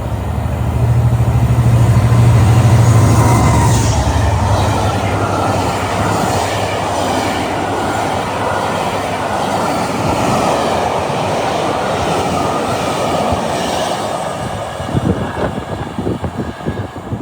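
A non-stopping train passing through the station at speed: a loud low drone as the front passes, then steady wheel-on-rail rushing, ending in a rapid clatter of wheels over rail joints about fifteen seconds in as the last coaches go by and the noise fades.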